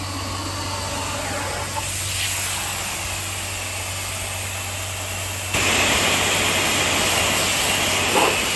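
Car wash spray wand spraying, a steady hiss over a constant low hum, growing louder and brighter about five and a half seconds in.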